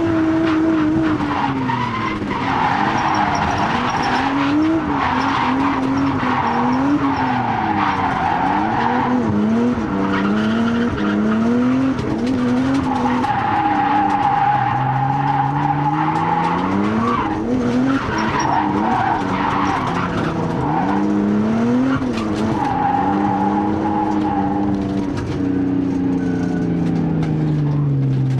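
Nissan R32 Skyline's RB20DET turbocharged straight-six revving up and dropping back again and again while drifting, with long stretches of tyre squeal.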